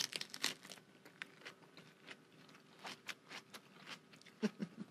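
Two people biting into and chewing crisp lettuce-leaf wraps of bean salad with pickles: a crunch at the start, then a run of short, crisp crackles.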